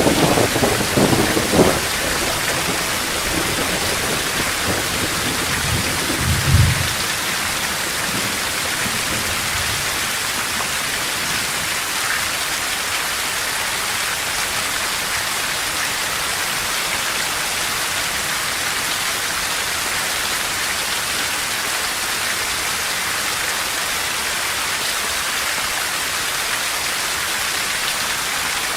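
Heavy thunderstorm rain falling steadily in an even hiss, with thunder rumbling and cracking in the first couple of seconds and once more about six seconds in, then rain alone.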